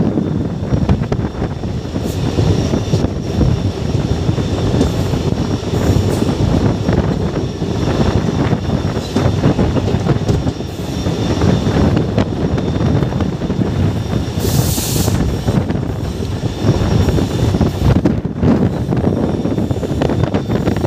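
A moving train heard from its own open window: a steady rumble of wheels on the rails with frequent clicks and clatter, and faint high whines from the wheels. A short high hiss comes about fifteen seconds in.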